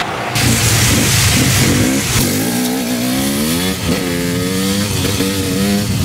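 Dirt bike engine revving, its pitch rising and falling several times in the second half.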